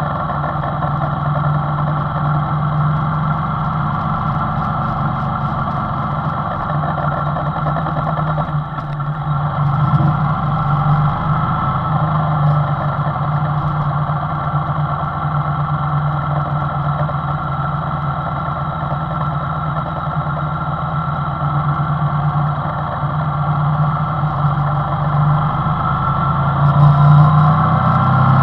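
Two-cylinder engine idling steadily, briefly picking up about ten seconds in and getting louder near the end.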